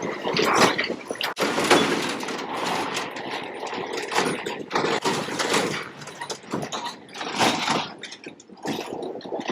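Heavy truck on a rough road: engine noise mixed with irregular rattling and knocking that rises and falls in uneven surges.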